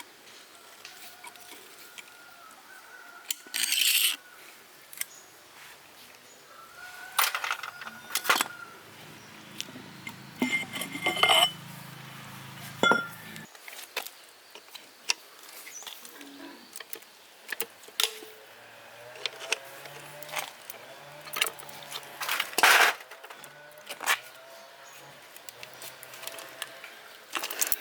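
Metal parts and hand tools clinking and clattering as they are handled and set down, with scattered sharp knocks and a brief metallic ring; no engine running.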